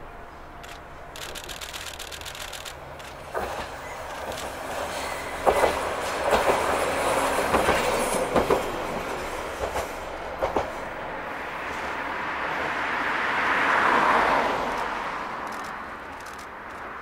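Isumi Railway diesel railcar approaching and passing. Its wheels clack over rail joints several times, then its running noise swells to a peak about fourteen seconds in and fades away.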